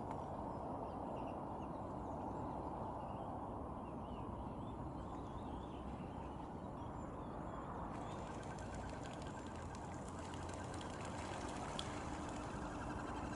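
Faint, short bird chirps over a steady background rumble. About eight seconds in, the background changes and becomes hissier, with a faint steady tone.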